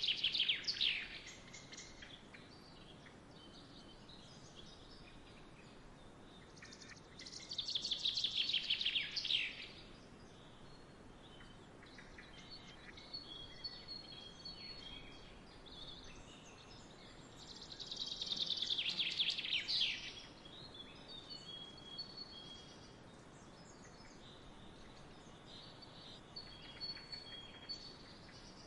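A songbird singing a rapid trill that falls in pitch, about two seconds long, three times roughly ten seconds apart. Fainter bird chirps come in between, over a steady soft background hiss.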